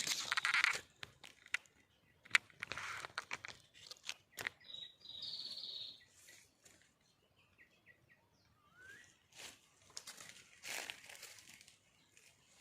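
Irregular rustling and crackling, as of movement in dry leaf litter, with a few sharp clicks and short high bird chirps in between.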